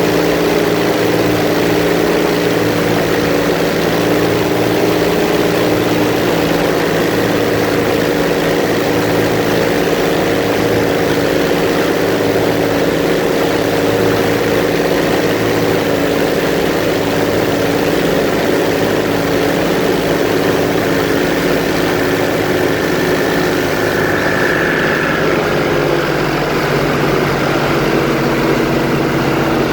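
Airboat's engine and air propeller running steadily at speed; the engine note shifts slightly about three-quarters of the way through.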